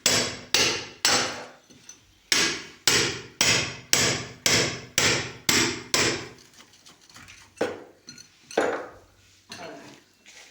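Hammer blows struck steadily, about two a second with a brief break, then a few slower, lighter blows in the last few seconds.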